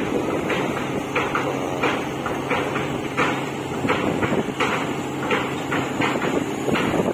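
River dredger's engine running steadily, with irregular knocks and clanks of its machinery coming a couple of times a second.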